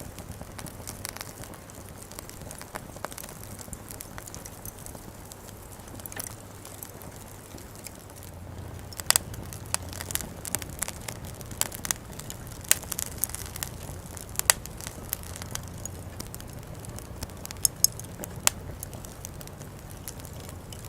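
Campfire crackling, with sharp scattered pops over a low steady background; the pops grow more frequent about halfway through.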